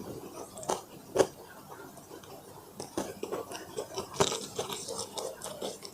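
Biting into and chewing crispy fried chicken, a string of sharp crunches with the loudest about a second in.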